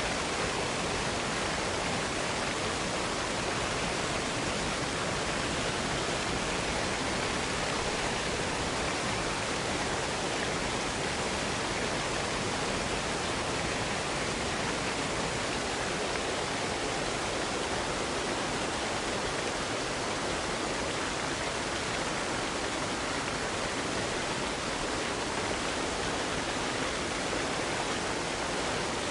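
Waterfall cascade pouring steadily: an even, unbroken rush of falling water.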